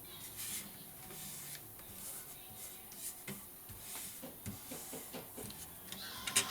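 Paper rustling and being handled on a craft table: scattered soft rustles and light taps, with a sharper click near the end.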